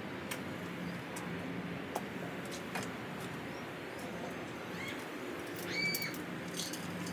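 Outdoor ambience with a faint steady low hum and scattered faint clicks; a bird gives two short whistled calls, about five and six seconds in.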